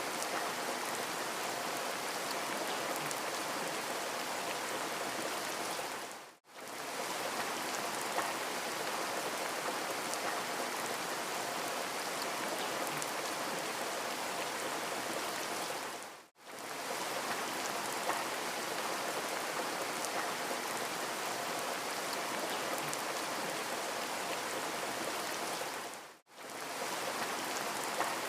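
Steady rain ambience, an even hiss of falling rain, which dips briefly to near silence three times, about every ten seconds.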